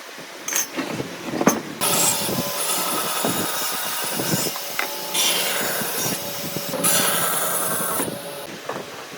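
A power tool cutting wood, starting abruptly about two seconds in after a few knocks and running in three stretches before stopping near the end.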